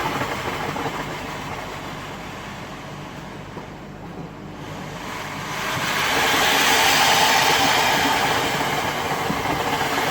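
Steam rushing and hissing out of a Zhar Gorynych closed-heater banya stove as water poured onto its hot stones flashes to steam. The rush dies down over the first few seconds, then swells louder again about five seconds in and keeps going.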